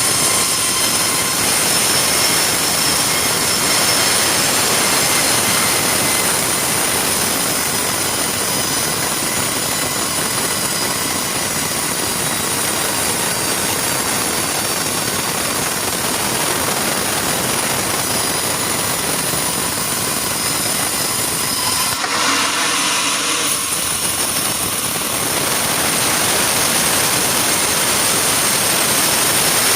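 Sawmill saw running with a steady loud rush and a high whine, its sound shifting briefly about three-quarters of the way through.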